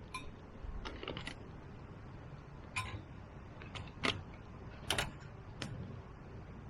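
Firewood crackling in a fire pit: about eight sharp, irregular pops and snaps over a low steady background.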